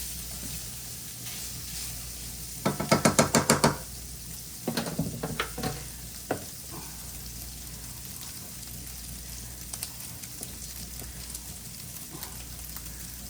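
Pork breakfast sausage sizzling steadily as it fries in a pan. About three seconds in comes a fast run of loud ringing knocks, then a looser cluster of knocks and clatter a little later, consistent with a utensil stirring and striking the pan.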